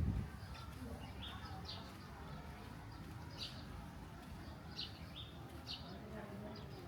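Small birds chirping: short high chirps repeating about once or twice a second over a low, steady background murmur.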